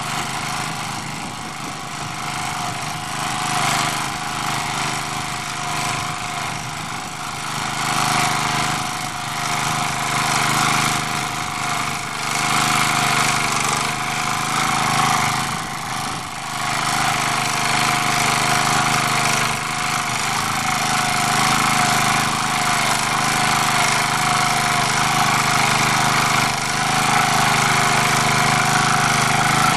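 MD3 walk-behind tractor's small engine running steadily in first gear while its rotary tiller works the soil. The loudness wavers a little as the load changes.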